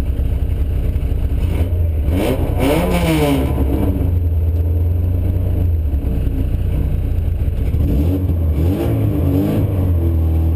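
Autocross car's engine idling, heard from inside the cabin, with throttle blips revving it up and back down about two seconds in and again near the end.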